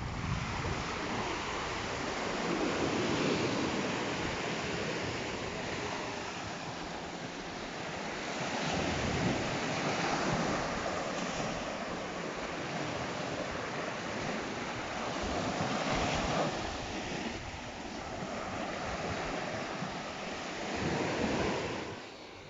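Sea waves breaking on the shore, swelling and washing back about every six seconds, with some wind on the microphone.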